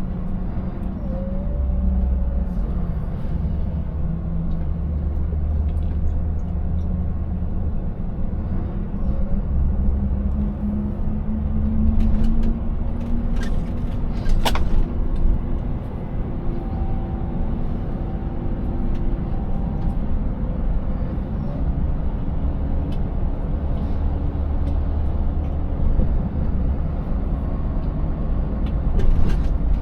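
Scania 590S V8 truck running under way, engine and low road rumble steady, the engine note climbing a little around the middle. A single sharp knock about halfway through.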